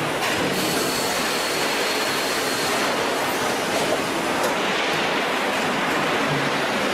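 Steady hiss of factory machinery on a water heater tank production line, with a faint high whine for a couple of seconds near the start.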